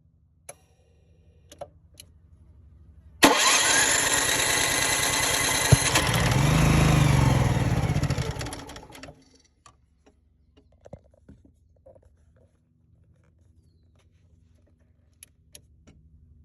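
Cummins Onan 2500 LP propane generator engine cranking with the starter for about three seconds. It then fires and catches, runs up briefly and winds down, dying again within a few seconds. This is the fault of a generator that fires but won't stay running. A few light clicks come before and after the attempt.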